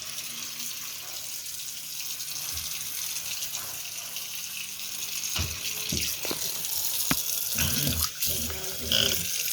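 Water running steadily from a tap through newly fitted pipework being checked for leaks, with a few sharp knocks and handling bumps in the second half.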